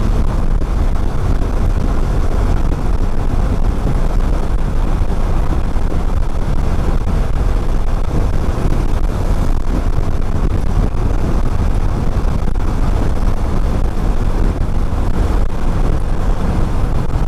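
Motorcycle ride heard from the rider's body-mounted action camera: steady wind rushing over the microphone with the engine running evenly underneath.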